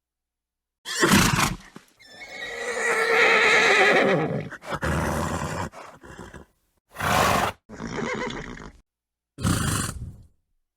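A horse neighing: a long wavering whinny starting about two seconds in, set between several short, breathy snorts, with abrupt stretches of dead silence between the spliced clips.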